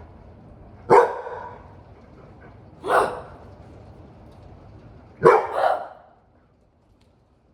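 A large dog barking: single barks about two seconds apart, then a quick double bark.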